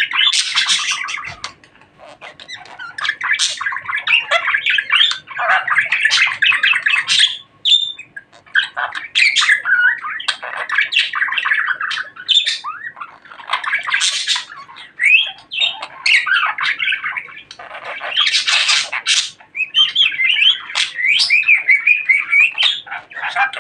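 Budgerigar chattering and warbling in long, fast phrases of chirps and squawks, with brief pauses.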